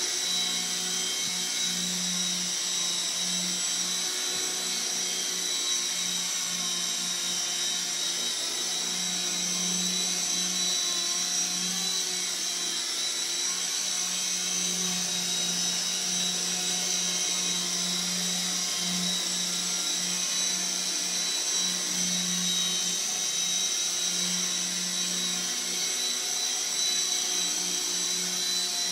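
A small electric RC helicopter (Walkera CB180Q) hovering: a steady high-pitched motor whine with a lower rotor hum that swells and dips slightly as the pilot holds the hover.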